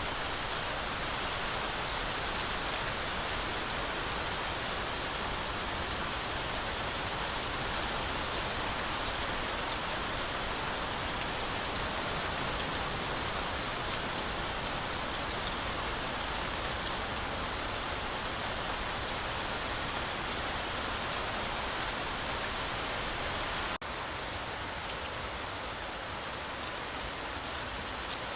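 Heavy rain falling steadily through a forest canopy, a dense even hiss of drops. About 24 seconds in there is a momentary dropout, and the rain is slightly quieter after it.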